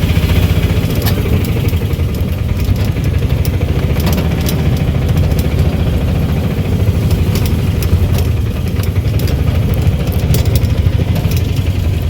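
An engine running steadily, with scattered light clicks and rattles over it.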